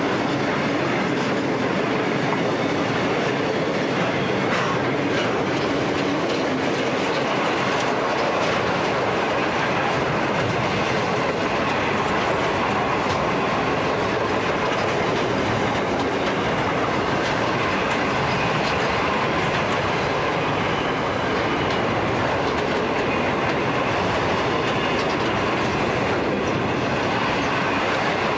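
Loaded freight wagons of a heavy steel train rolling past on the mainline: a steady rumble with the clatter of wheels over the rail. About two-thirds of the way in, a thin, high wheel squeal comes and goes a few times.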